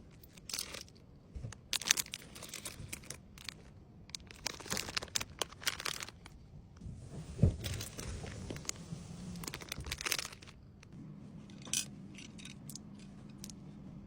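Plastic packaging crinkling and rustling in irregular bursts, with light clicks, as small wrapped items are handled and packed.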